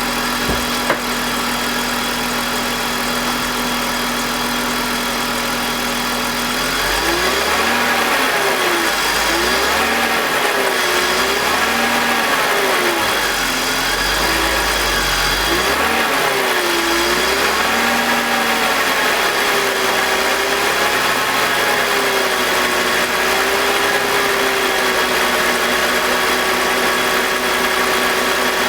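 BMW M52TU 2.5-litre inline-six engine running with its VANOS solenoids disconnected. It idles steadily at first; about seven seconds in, the engine speed rises and swings up and down several times, then holds steady at a higher speed. With the VANOS unplugged, the owner reports none of the grinding noise.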